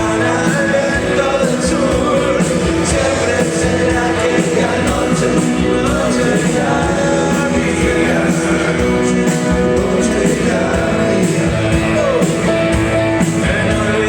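A live rock band playing, with a lead singer over guitars and a steady drum beat.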